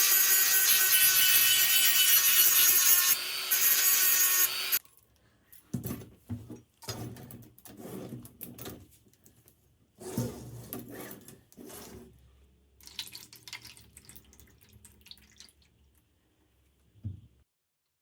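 A power tool running at steady speed, a loud hiss with a steady whine, cuts off abruptly about five seconds in. Quiet, scattered knocks, taps and rubbing of hand work follow, with a last knock shortly before the end.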